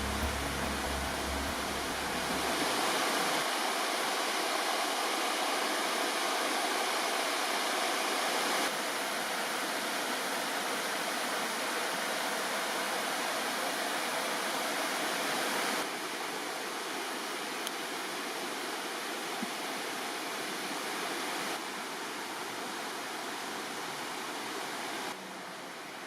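Steady rushing of flowing river water, the Enz, an even hiss that drops a little in level several times. Background music fades out in the first few seconds.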